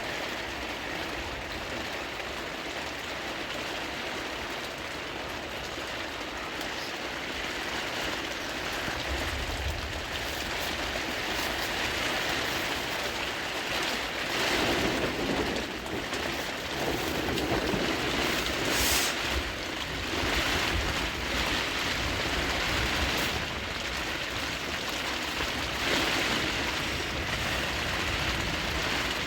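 Heavy rain and gusting wind: a steady hiss that swells in gusts from about nine seconds in, with low wind rumble on the microphone.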